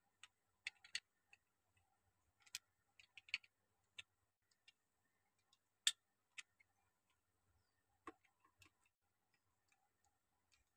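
Faint, irregular clicks of plastic Lego bricks being handled and pressed together, a dozen or so scattered taps with one louder click about six seconds in.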